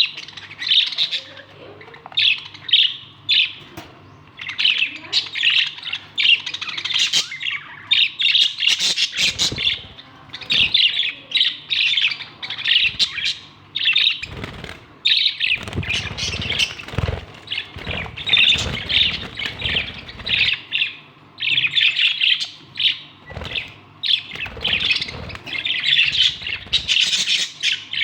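Budgerigar chirping and chattering in quick, dense bursts of high warbling calls that run on with only brief breaks. Low rustling noise comes and goes in the middle stretch.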